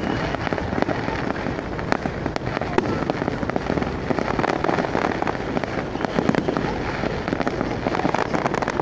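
Aerial fireworks display going off in a dense, continuous barrage of many overlapping bangs and pops.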